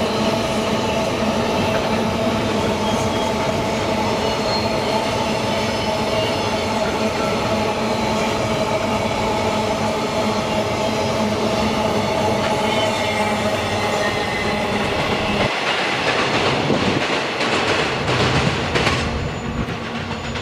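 Empty steel ore gondola wagons of a freight train rolling past close by, wheels rumbling on the rails with steady high squealing tones. About three-quarters of the way through, the sound changes to a train clattering over the track, growing quieter near the end.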